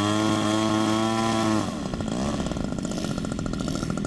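Small model airplane engine revving up to a steady high pitch, held for about a second and a half, then dropping away suddenly as it is throttled back, with another engine running underneath.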